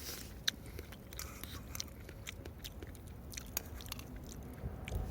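A person chewing and crunching food close to the microphone, with small irregular crunches and clicks.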